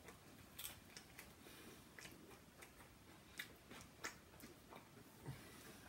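A person chewing food close to the microphone: faint, irregular mouth clicks and smacks over near silence.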